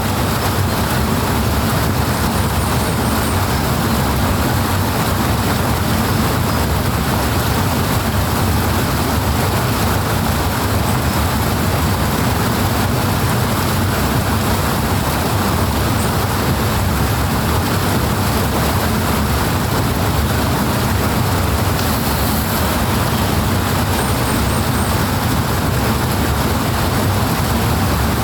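Powerful rushing water, a steady, unbroken roar that holds an even level throughout.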